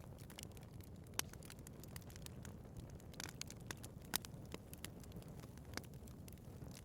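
Wood fire burning in a fireplace: a steady low rumble of the flames with frequent sharp pops and snaps, the loudest about a second in and about four seconds in.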